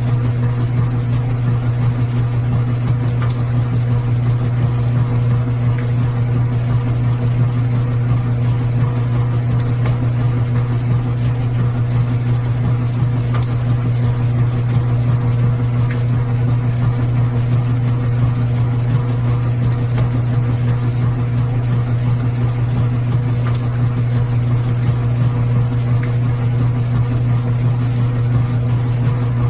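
Washing machine running with a steady, even hum, a few faint ticks over it.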